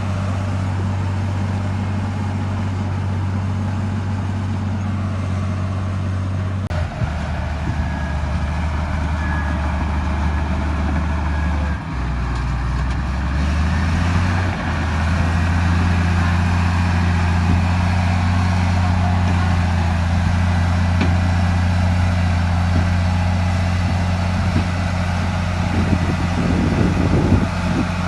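Heavy diesel engine of a bulldozer running under load. Its low drone shifts pitch a few times as the throttle or load changes. Irregular clattering comes in near the end.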